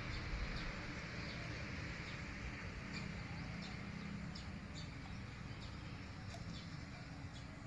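A small bird chirping over and over, short high chirps coming at irregular intervals, over a low steady rumble of outdoor ambience.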